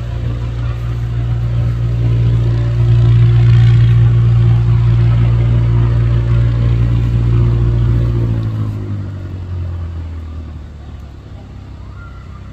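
Small propeller aircraft engine running loud and steady, then dropping slightly in pitch and fading away about eight seconds in as it moves off.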